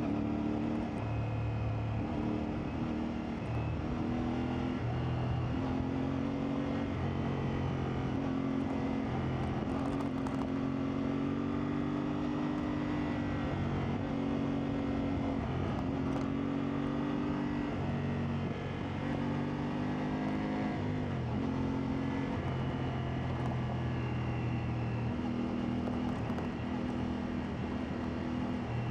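CFMoto 450MT motorcycle's parallel-twin engine running steadily under changing throttle, its pitch stepping up and down every few seconds.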